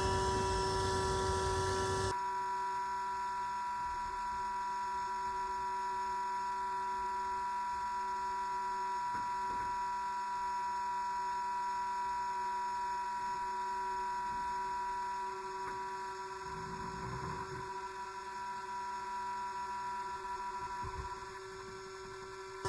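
Steady hum of a bee vacuum's motor, a constant pitched whine made of several steady tones; the low rushing noise drops away abruptly about two seconds in.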